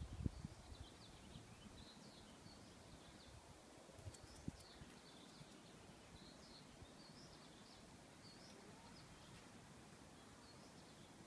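Near silence: faint outdoor background with small birds chirping faintly throughout, and two soft knocks about four seconds in.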